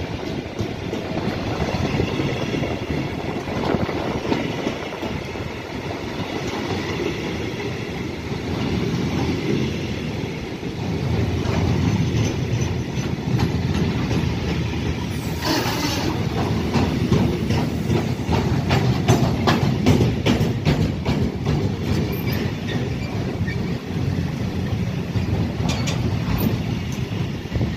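Long freight train of covered sliding-wall wagons rolling past: a steady rumble of wheels on rail with a run of rapid clacks over the rail joints in the second half. There is a brief hiss about halfway through.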